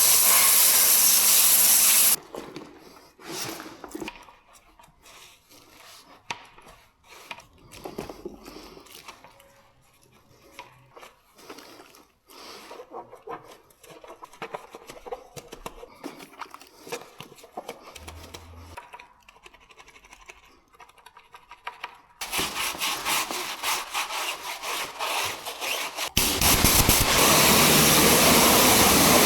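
Car-detailing work: a loud steady machine noise that stops about two seconds in, then a long stretch of scrubbing and rubbing with scattered clicks and knocks, then loud steady machine noise again from about 22 seconds in.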